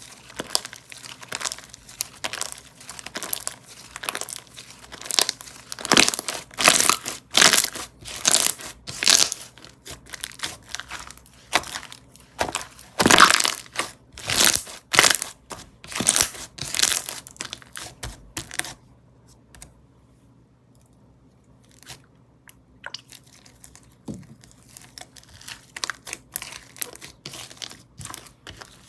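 Slime being squished, stretched and poked by hand, giving dense, irregular crinkly crackles and pops. The crackling almost stops for a few seconds past the middle, then comes back more sparsely.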